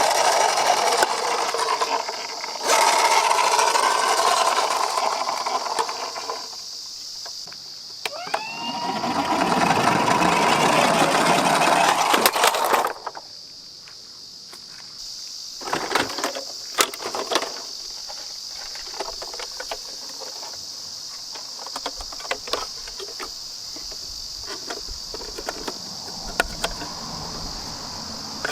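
Toy minicars rolling down a ramp, making a loud rattling noise in two long stretches and then scattered clicks and knocks as they hit each other and stop. A faint steady hiss runs under the quieter second half.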